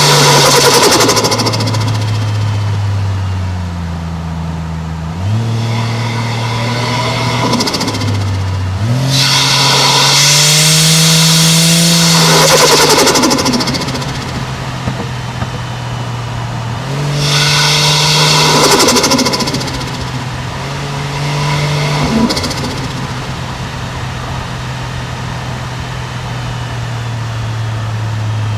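Toyota 1JZ-GTE turbocharged straight-six engine and exhaust pulling through the gears. The revs drop at each shift and climb again, with several short rushing bursts of turbo flutter as the throttle changes. Near the end the engine settles to steady cruising revs.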